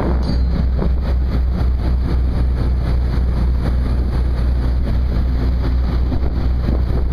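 Steady low drone of a ship's machinery running without change, heard on deck during cable hauling.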